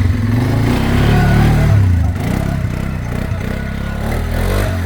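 ATV engine running and revving, rising about a second in and easing back a little after.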